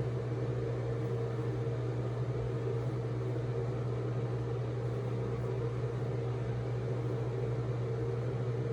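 Steady low electrical hum with an even hiss underneath, unchanging throughout; no other sound stands out.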